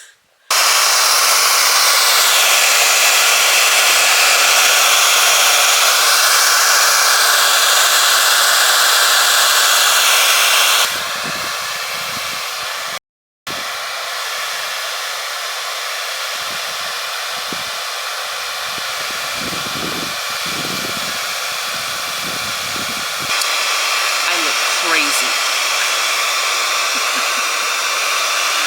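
Hand-held hair dryer blowing steadily, aimed at a frozen outdoor water pipe to thaw it. The rushing noise gets quieter about 11 seconds in, cuts out briefly about 13 seconds in, then returns and grows louder again near the end.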